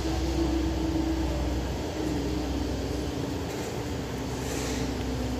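Train running away from a level crossing: a steady low rumble under an engine hum whose pitch slowly drops.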